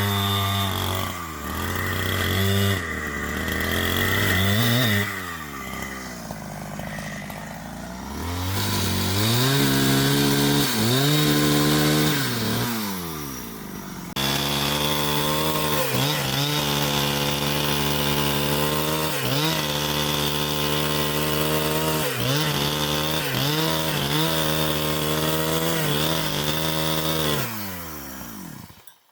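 Two-stroke chainsaw running, its engine speed rising and falling repeatedly, then held high for a long stretch before it winds down and stops near the end.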